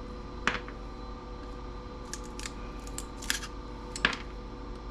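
About five sharp, scattered metal clicks and clinks of hand tools working small brass fittings off a small CRT TV, over a steady hum.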